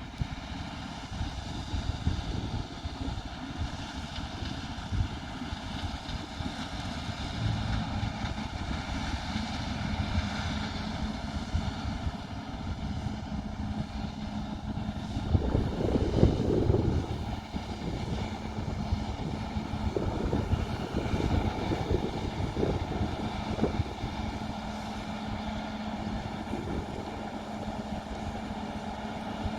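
Combine harvester running at work: a steady engine drone with a constant mechanical whine from the threshing gear and fans. It swells louder for a couple of seconds around the middle.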